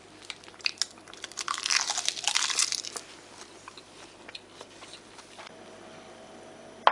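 A person biting into and chewing a bite of rice wrapped in dried seaweed (gim), with crisp crunching and mouth clicks that are loudest in the first three seconds and fainter after. A single short, sharp sound comes near the end.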